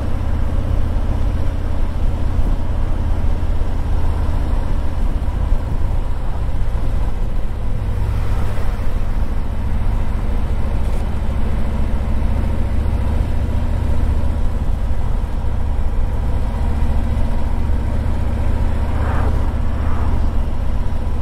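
Harley-Davidson Tri Glide trike's Milwaukee-Eight 114 V-twin engine running steadily while riding, a constant low rumble.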